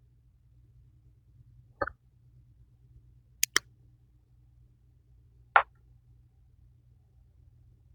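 Coloring markers being handled, giving a few short clicks and taps: one just under two seconds in, a quick double click around three and a half seconds, and another about two seconds later. A faint low hum runs underneath.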